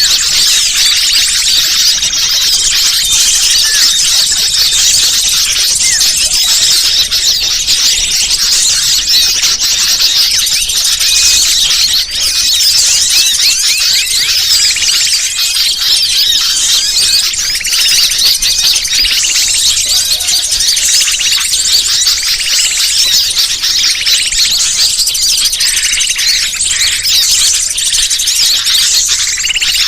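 Bird-lure (pikat) recording: a dense, continuous chatter of many small birds chirping and trilling at once, high-pitched and overlapping without pause.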